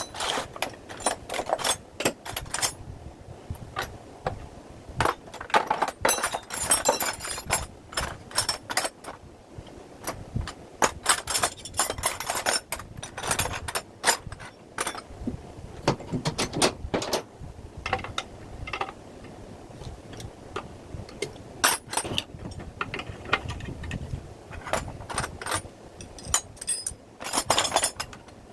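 Small metal parts and tools clinking and rattling as they are handled, in irregular clicks and clusters of clinks.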